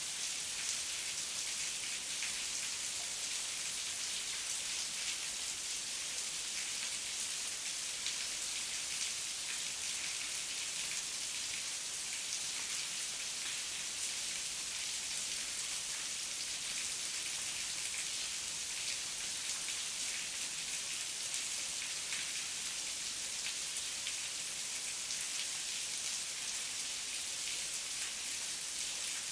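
Heavy rain falling steadily, an even hiss of dense drops with no thunder.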